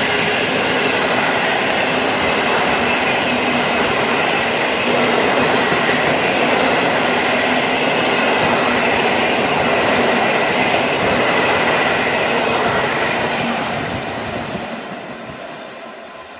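Electric train hauled by a PKP EU160 Griffin locomotive rolling past at speed, with a steady rush of wheels on rail and faint clickety-clack. The noise dies away over the last couple of seconds as the train moves off.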